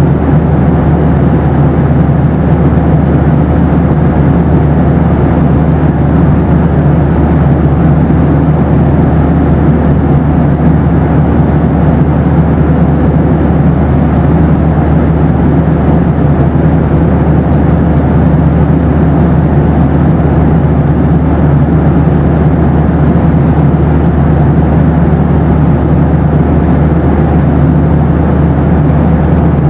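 Boeing 737 cabin noise in flight: a loud, steady, unchanging low rush, with a faint steady hum running through it.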